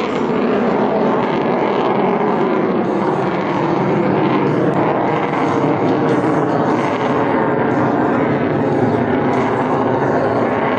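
Boeing C-17 Globemaster III's four turbofan jet engines, a loud steady jet noise with no let-up.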